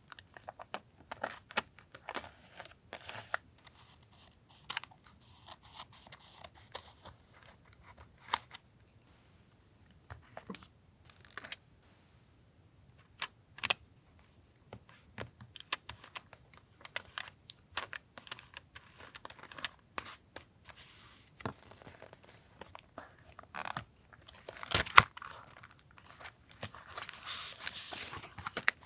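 Paper handling during collage journaling: scattered taps and clicks of paper and tools on a desk, with bouts of rustling and tearing paper, the longest and loudest near the end.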